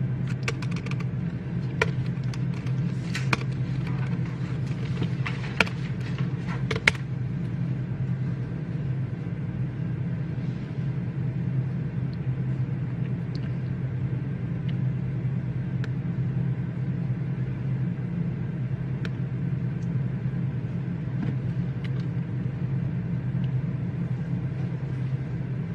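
Reading-room ambience: a steady low hum, with scattered sharp keyboard clicks in the first seven seconds and a few fainter ones later.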